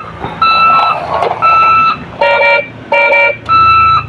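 Electronic toy emergency-vehicle siren beeping: half-second beeps about once a second, mostly on one high tone, with two lower-pitched beeps in the middle.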